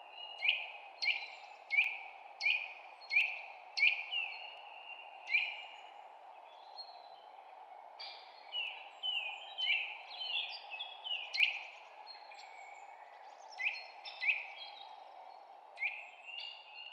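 Songbird chirping: a run of short, sharply down-sweeping chirps at roughly one to two per second, then a pause and more chirps after about eight seconds, with scattered ones near the end. A steady low hiss of background noise sits underneath.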